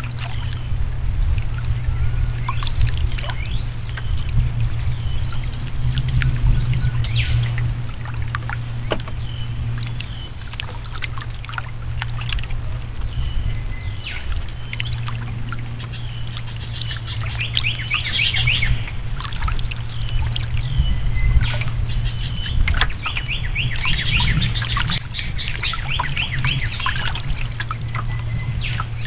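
Birds chirping and calling again and again over a steady low hum, with quick trilled runs past the middle and again near the end.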